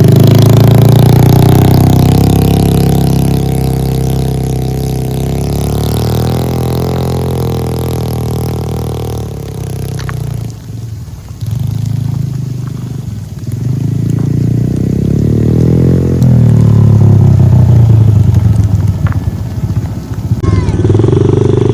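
Honda dirt bike engine running under load, its revs dropping and climbing again a few times around the middle, then held high.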